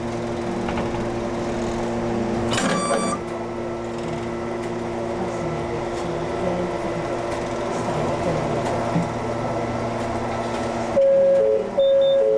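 Ex-Tokyu 7000 series electric train running, with a steady mechanical hum under the rolling noise. There is a brief clatter about two and a half seconds in, and a steady tone starts near the end.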